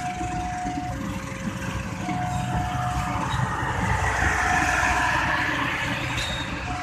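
Railway level-crossing warning alarm alternating a higher and a lower tone, each held about a second, over the low rumble of vehicle engines. Between about four and six seconds a louder rushing noise swells over the alarm.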